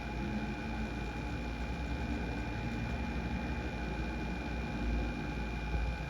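Distant aircraft engine rumble, steady and low, with a thin steady high whine above it.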